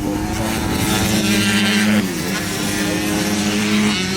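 Small pit bike engines running hard on the track. The engine note drops and climbs again about two seconds in, as a bike comes off the throttle and picks up again.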